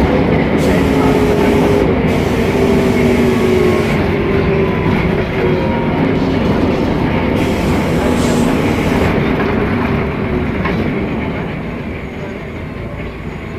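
Mercedes-Benz O500MA articulated bus's diesel engine running while under way, heard from inside the bus. Its pitch slowly falls over most of the stretch, and it gets quieter in the last few seconds.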